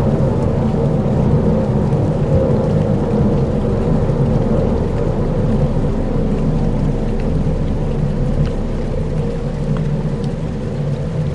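Dark ambient soundscape: a dense, steady low rumble with faint held tones above it and a few soft ticks, easing slightly near the end.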